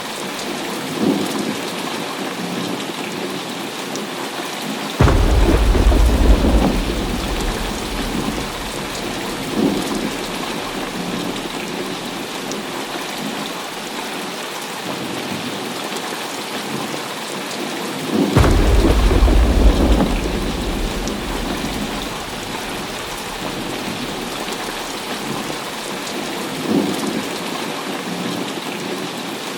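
Heavy rain falling steadily in a thunderstorm. Two loud thunderclaps with a deep rumble break in about five seconds in and again some thirteen seconds later, each fading over a few seconds, with fainter rolls of thunder between.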